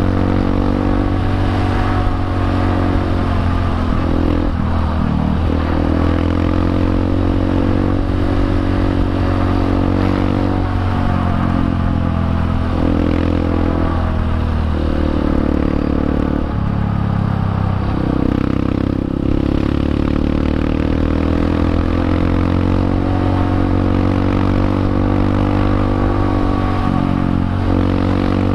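Honda CRF150L's single-cylinder four-stroke engine, breathing through a Norifumi aftermarket exhaust, running under way as the bike is ridden. The revs drop and climb again several times as the throttle is rolled off and back on.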